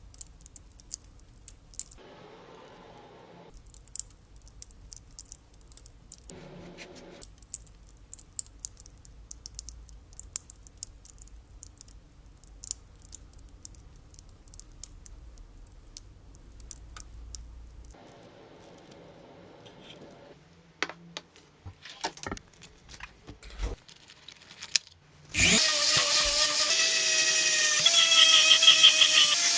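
Scattered small clicks and light scraping of hand work on metal parts. About 25 seconds in, an electric power tool starts loudly and runs with a whine that wavers in pitch.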